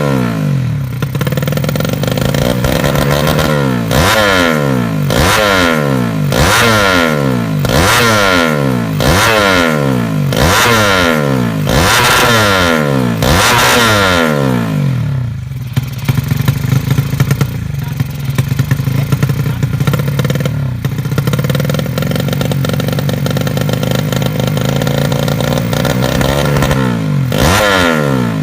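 Race-tuned Yamaha Jupiter 110 four-stroke single-cylinder motorcycle engine being blipped hard about once a second, each rev shooting up and dropping back. About halfway through it settles to a lumpy idle with irregular crackling pops, then revs sharply again near the end.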